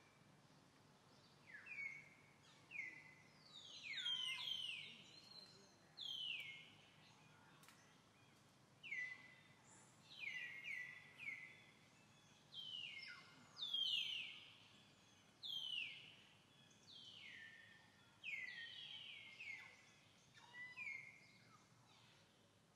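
A bird calling over and over, about twenty calls, often two or three close together. Each is a quick high note that sweeps down and levels off.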